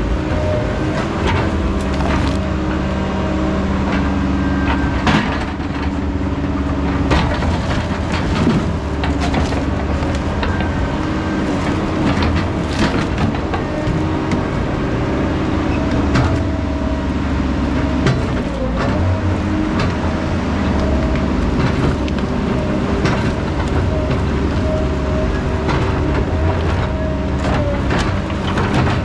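Heavy logging machine's diesel engine running steadily under load, with a wavering whine over it and scattered sharp knocks throughout.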